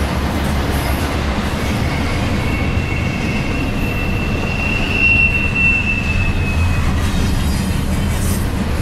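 Double-stack intermodal well cars of a freight train rolling past with a steady, loud rumble. In the middle, a high wheel squeal sounds for about five seconds, rising slightly in pitch.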